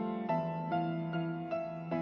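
Slow, gentle piano or keyboard music, soft chords changing about every half second.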